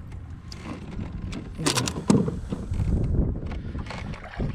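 A few sharp knocks and clatters over a low, uneven rumble of handling noise on a kayak, loudest about two seconds in.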